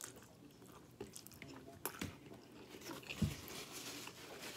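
Close-up chewing of a mouthful of chicken Alfredo pasta: quiet wet mouth sounds with small clicks, and a soft low thump about three seconds in.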